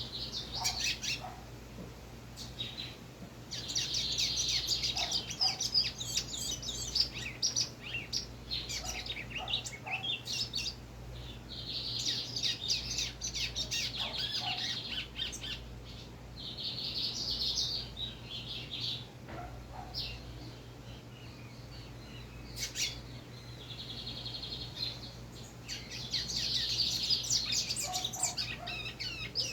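Young lined seedeater (bigodinho, still in brown 'pardo' plumage) singing from a covered cage: several long runs of fast, twittering high notes, with short pauses between the phrases.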